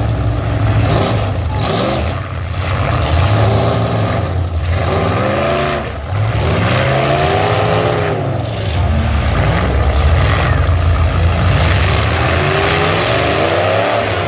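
Several full-size pickup truck engines racing at full throttle, revving and backing off again and again so the pitch keeps rising and falling, with the engines running steadily underneath.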